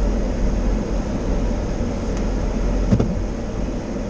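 Steady in-cabin noise of a car with its air conditioning running: a low engine rumble under the hiss of the AC blower. A brief click about three seconds in.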